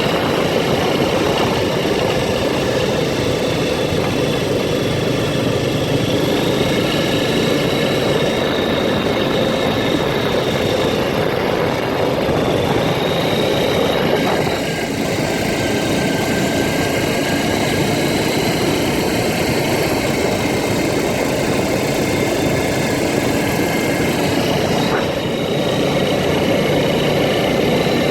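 ATV engine running steadily while the machine is under way, with a steady high whine above the engine noise. The level dips briefly about fifteen seconds in and again near twenty-five seconds.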